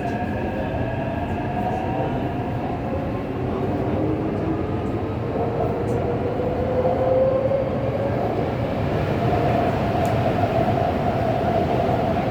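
Taipei Metro C381 electric train running, its software-modified traction inverter and motors whining with tones that glide upward in pitch, over steady rolling noise of the wheels on the track.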